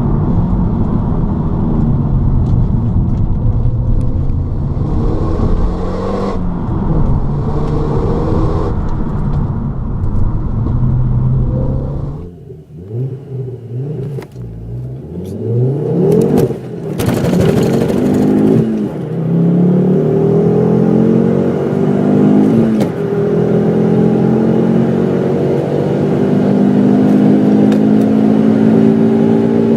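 Turbocharged hot-hatch car engine accelerating hard through the gears. The pitch climbs, then drops back at each upshift. About halfway through it cuts to a fresh run that starts low and climbs again through several shifts.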